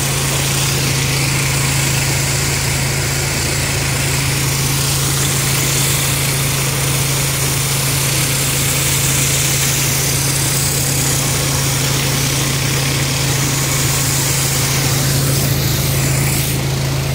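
Pressure washer engine running steadily with a constant low hum, under the even hiss of the high-pressure water spray.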